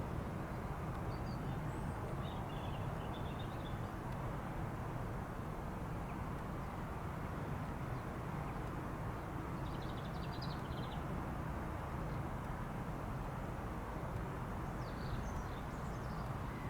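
Steady low outdoor rumble of airport background noise, with small birds chirping briefly three times.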